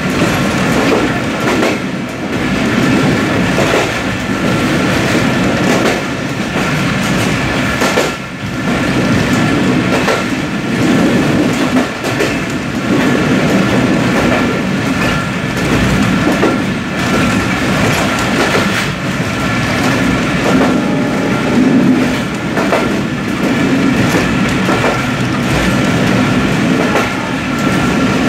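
Intercity passenger train running at speed, heard from its last coach: a loud, steady rolling rumble of wheels on rail with scattered knocks over rail joints and a thin held whine from the wheels.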